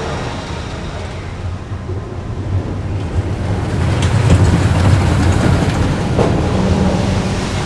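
Roller coaster train rumbling along its track, growing louder about halfway through and then easing off.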